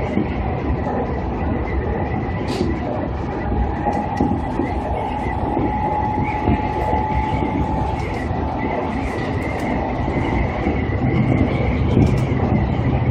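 Seibu Ikebukuro Line electric commuter train running at speed, heard from inside the front car: a steady rumble of wheels on rail with a few sharp clicks, and a faint high whine held from about four to ten seconds in.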